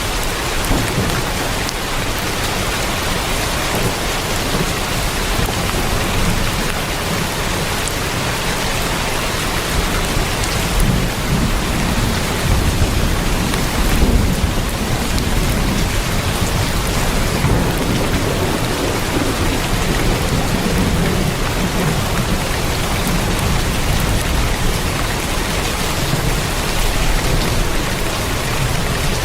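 Heavy rain drumming steadily on a tin roof, a dense even hiss. A low rumble of thunder swells and fades through the middle.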